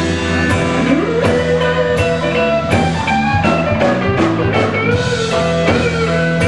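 Live blues band playing, with a guitar lead over bass and drums. About a second in, a guitar note bends upward and is held.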